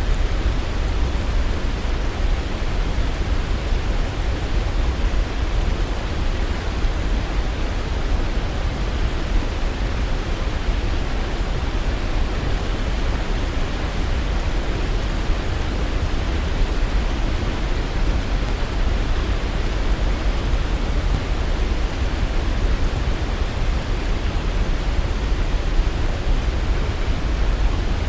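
Waterfall rushing: a steady, dense roar of falling water with a heavy low rumble.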